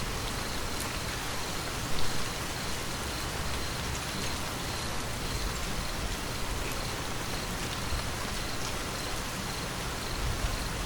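Steady rain falling, an even hiss of many drops, with one brief louder spot about two seconds in.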